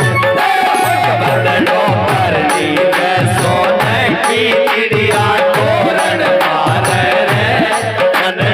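Rajasthani Phagun folk song played live: a dholak keeps a steady, driving beat under a keyboard organ melody.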